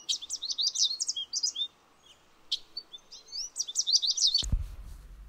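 A small bird chirping in quick runs of short, rising high notes, in two bouts with a brief pause between them. A sharp click near the end, followed by a low steady hum.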